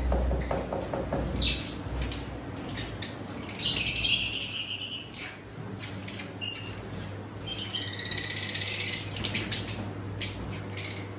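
Birds chirping, with two bursts of rapid, dense chattering, about four seconds in and again about eight seconds in.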